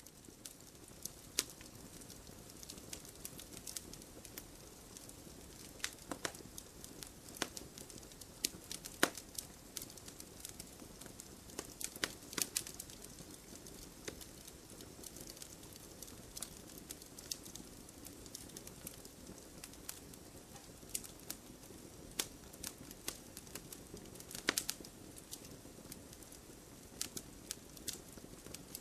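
Wood bonfire burning: a steady soft hiss with frequent sharp crackles and pops at irregular intervals.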